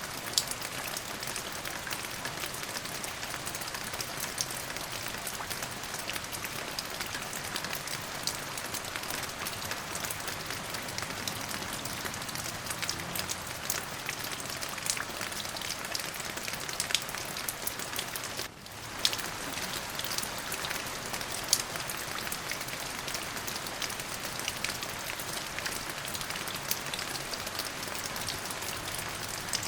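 Steady rain falling on a surface: an even hiss scattered with many sharp, distinct drop ticks. The sound dips out briefly about two-thirds of the way in.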